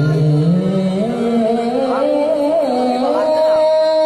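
A male qari reciting the Qur'an in melodic tilawah style, holding one long ornamented note that climbs steadily in pitch.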